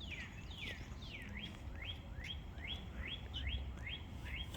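A songbird singing a run of about ten clear whistled notes, roughly two and a half a second: the first few slide down in pitch, the rest slide up.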